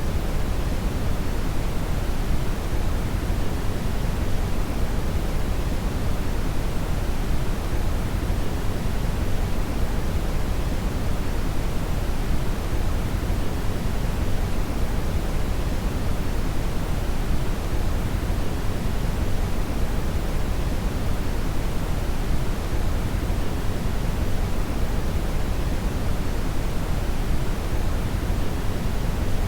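Steady synthetic brown noise: a constant deep rushing hiss weighted heavily to the low end, with no change in level.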